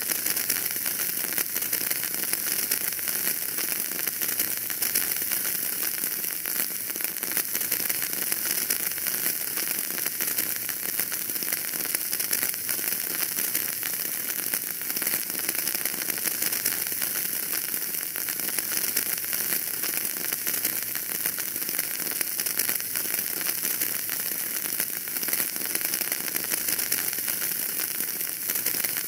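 Fire burning in a fireplace, crackling and hissing steadily: a dense, even patter of small crackles with no big pops.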